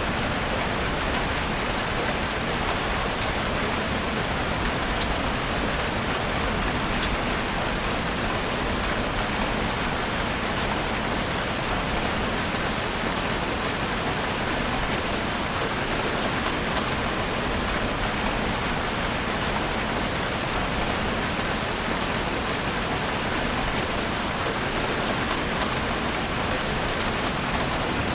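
Heavy rain drumming steadily on a roof, a dense even patter with many fine drop ticks and no change in strength.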